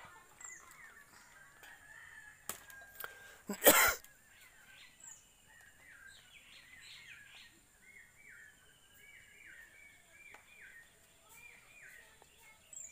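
Birds chirping over and over in short, quick calls. A single sharp clatter about four seconds in is the loudest sound.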